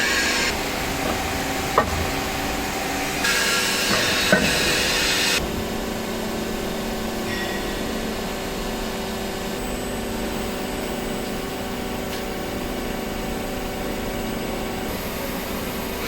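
Hydraulic wheel press's power unit running with a steady hum, with two sharp metallic knocks and a hissing rush from about three to five seconds in.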